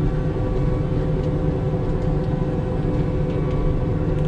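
Skidder's diesel engine running steadily as the machine drives along: a deep, even drone with a steady hum over it.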